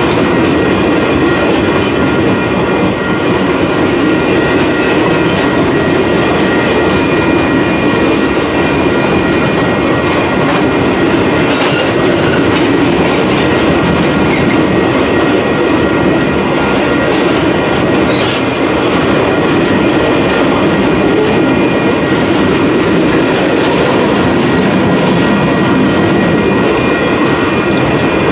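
Loaded Union Pacific freight train's boxcars rolling past at close range: a loud, steady rumble and rattle of wheels and cars on the rails, with thin steady high tones running over it.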